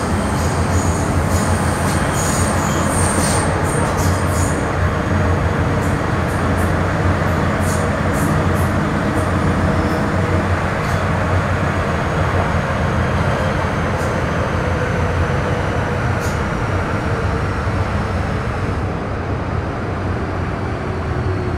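Metro Cammell M-Train EMU with GEC GTO chopper traction running, heard from inside the car: a steady rumble of wheels and traction equipment, with high wheel squeal in the first few seconds. Faint whining tones then glide slowly down in pitch as the train slows.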